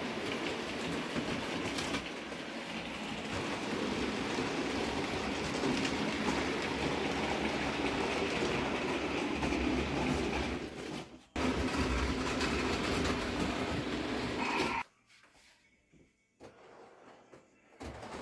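Model railway train running around the layout's track with a steady running noise. It breaks off briefly about eleven seconds in, then cuts off abruptly about fifteen seconds in, leaving near silence for about three seconds before it returns.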